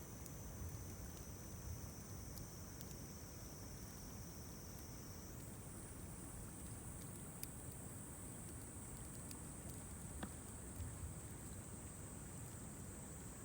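Faint wood campfire crackling with a few sharp pops, under a steady high-pitched insect trill that shifts higher about five seconds in.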